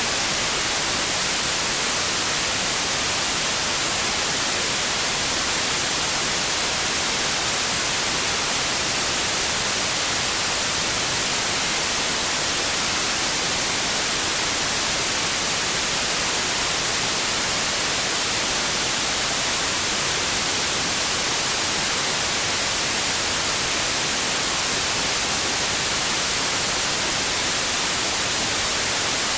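Steady white noise: an even, unchanging hiss weighted toward the highs.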